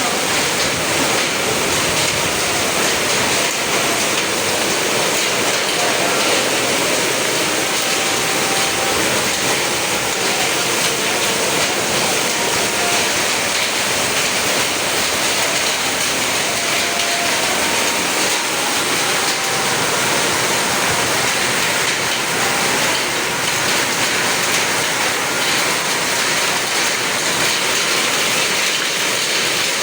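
Heavy rain pouring down in a strong wind, a steady, even rush of noise with no letup.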